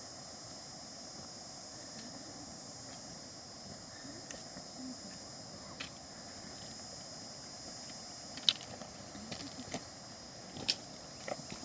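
Steady high-pitched chorus of crickets or other insects, with a few sharp clicks and knocks in the second half, the loudest about two-thirds of the way in.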